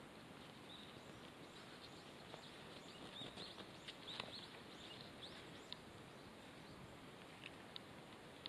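Faint outdoor hush with a few short, high bird chirps in the middle, along with a few light ticks.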